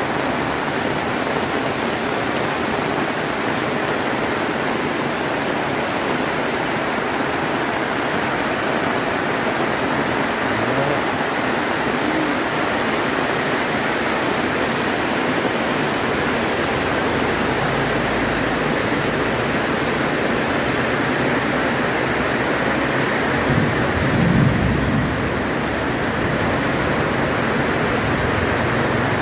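Heavy rain pouring steadily, with a low rumble of thunder in the second half that swells briefly a little before the end.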